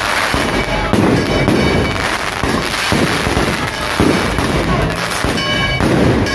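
Fireworks display: aerial shells bursting one after another in a dense, continuous barrage, with sharp bangs about a second in and about four seconds in.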